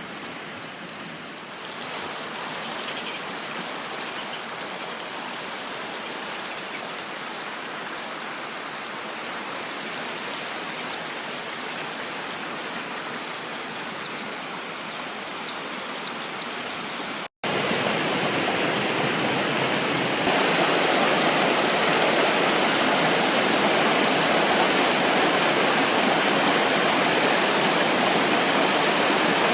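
River water flowing: a steady rush. It cuts out for an instant about two-thirds through and comes back louder.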